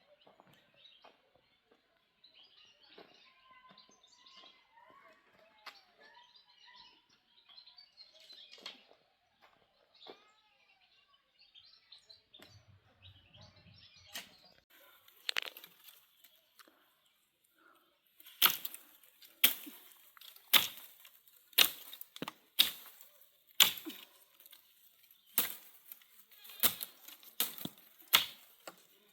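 Faint bird chirps, then from about halfway a run of loud, sharp snaps or knocks, roughly one a second, irregularly spaced.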